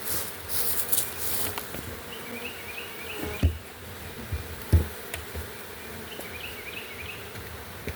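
Steady buzzing of a large honeybee swarm, with rustling in the first second or so and two dull thumps about three and a half and five seconds in as the swarm box is handled.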